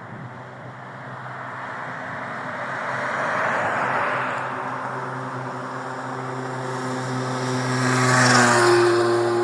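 Road vehicles passing: the tyre and road noise of one vehicle swells and fades around the middle, then a second vehicle's engine hum grows louder and drops in pitch as it goes by near the end.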